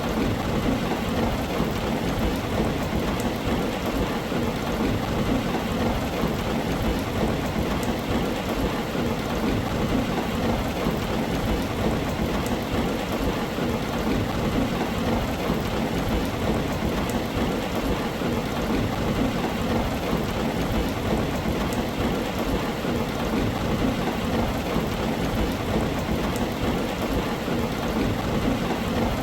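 Steady, heavy rain on a tin roof, an even wash of sound weighted toward the low end like a constant rumble.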